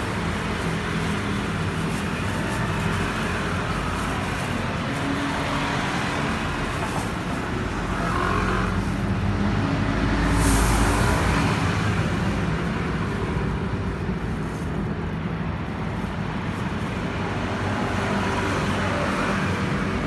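Kymco G3 scooter engine idling steadily, with the abnormal idle noise the owner traces to the clutch. It swells louder for a few seconds about halfway through.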